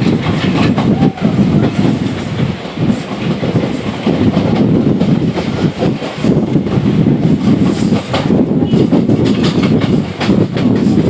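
MEMU electric train running at speed, heard from its open doorway: loud steady rumble of wheels on the track with the clickety-clack of rail joints and points.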